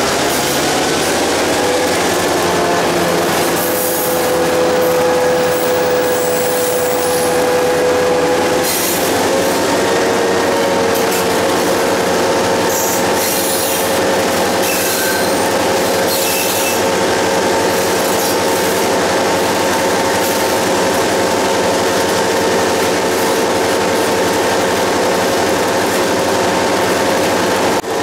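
Train rolling along the track, with a steady running drone whose pitch rises over the first couple of seconds and high-pitched wheel squeal coming and going in short bursts.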